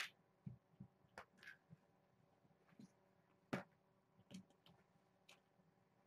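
Near silence with scattered soft clicks and taps from kittens moving about and playing, the loudest about three and a half seconds in.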